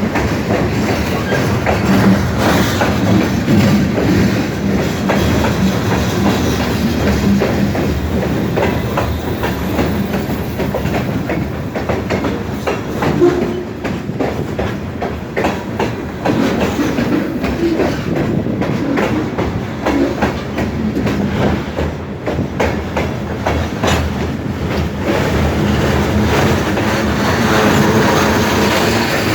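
Great Lakes Central freight train's cars rolling past, their steel wheels clacking steadily over the rail joints.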